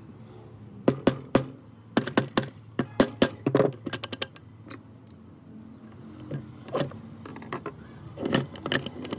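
Irregular sharp metallic clinks and knocks in two flurries, typical of steel gearbox parts and hand tools being handled and set down on a workbench.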